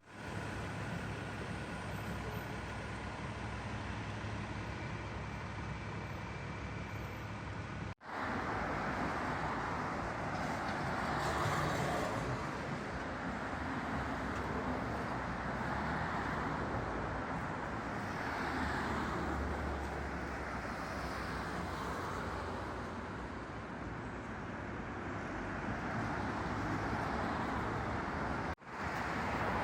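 Steady road traffic noise, a continuous even rush of passing vehicles, cut off briefly twice.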